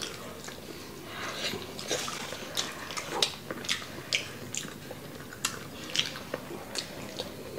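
Close-miked eating sounds of chicken wings: chewing and wet lip smacks, with sharp irregular smacking clicks about one to two a second.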